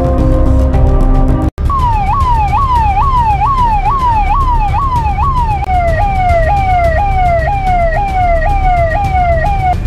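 Ambulance electronic siren wailing in a fast repeating pattern, each cycle a quick falling sweep about two to three times a second, shifting to a lower pitch a little past halfway. It follows a short stretch of music that cuts off abruptly about a second and a half in.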